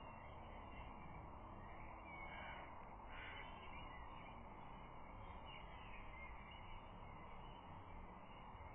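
Faint steady outdoor background noise with a few faint, distant bird calls, about two to three seconds in and again around six seconds.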